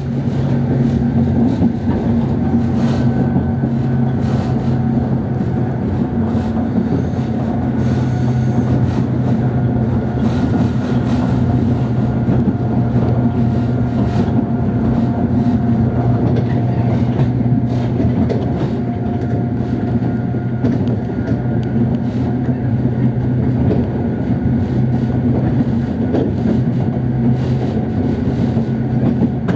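JR 103 series electric train running at a steady speed, its traction motors growling with a constant whine over the rumble of wheels on rail, with scattered light clicks from the track.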